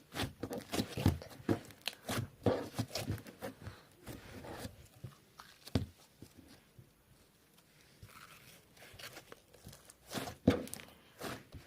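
Slime being squished and poked by hand, a run of irregular sticky crackles and pops, quieter for a couple of seconds in the middle.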